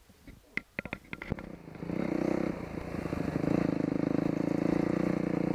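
A few sharp clicks, then a dirt bike engine starts running steadily from about a second and a half in.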